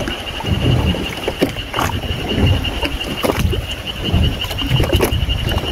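Water sloshing and splashing against the side of a boat, in irregular small slaps, over a steady thin high-pitched whine.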